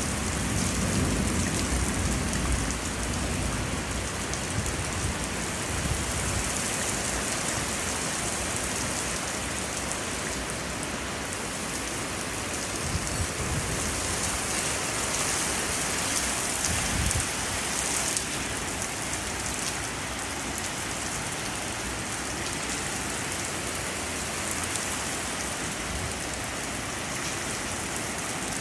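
Heavy rain pouring in a windy thunderstorm, a steady hiss that swells louder in gusts, most noticeably about six seconds in and again around fifteen seconds in. A low rumble sits under the rain in the first couple of seconds.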